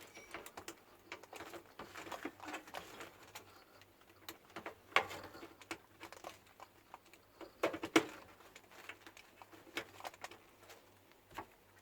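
Hands working on microwave oven parts: irregular clicks, taps and rustling as wires and terminals are handled, with two sharper knocks about five and eight seconds in.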